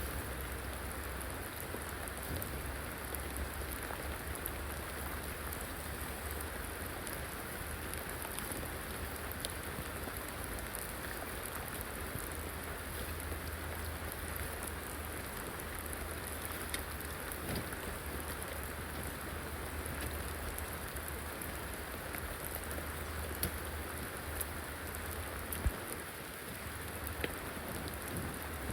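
Steady rain falling in the rainforest, with scattered sharper drop hits and a steady low rumble underneath.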